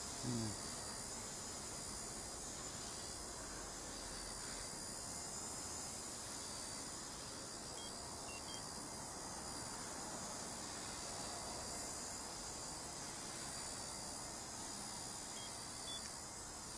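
Blade nano CP S micro RC helicopter hovering, its tiny motors and rotors making a steady high-pitched whine. Short electronic beeps come about halfway through and again near the end. A brief low sound is heard right at the start.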